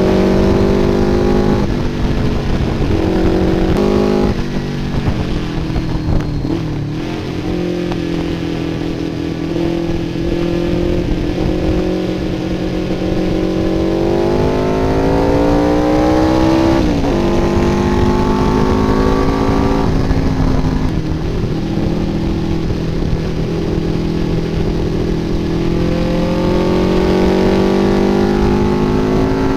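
MV Agusta 600 four-cylinder motorcycle engine under way on a racing lap, heard from on board. The engine note climbs steadily through the revs and falls back sharply several times, under a low rumble of wind rush.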